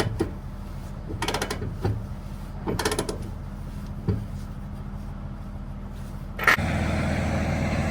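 Semi-truck engine idling low while the trailer's landing gear is hand-cranked up, heard as three short bursts of rapid ratcheting clicks. About six seconds in a sharp knock comes, and the idling then sounds louder and fuller.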